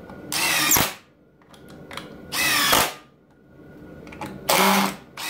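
Ryobi cordless impact driver driving screws one after another: three short bursts of about half a second each, roughly two seconds apart.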